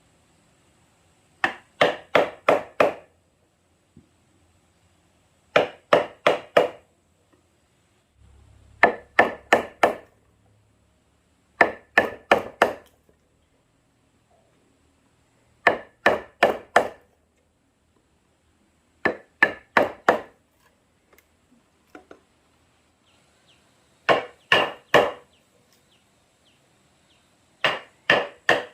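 Sharp blows of a hand tool on wood, in bursts of four or five quick strikes repeated every few seconds, each blow with a short ringing note.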